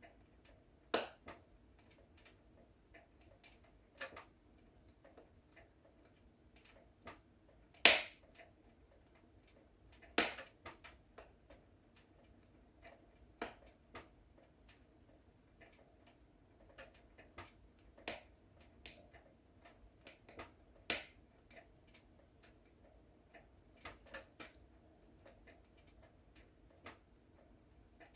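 Wood fire in a fireplace crackling: scattered sharp pops and snaps at irregular intervals over a faint steady hiss, the loudest pop about eight seconds in.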